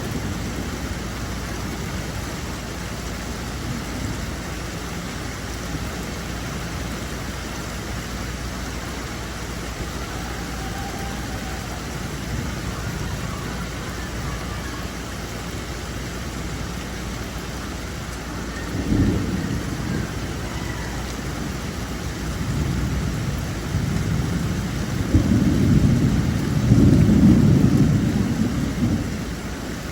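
Steady rain hiss, with a sudden low crack of thunder about two-thirds of the way in and a long rolling rumble of thunder that swells near the end.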